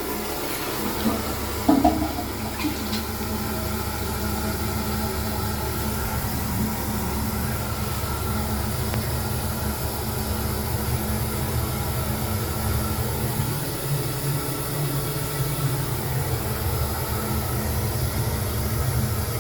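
Balterley toilet flushing and its cistern refilling: a steady rush of water with a low hum underneath. There is a short clunk about two seconds in.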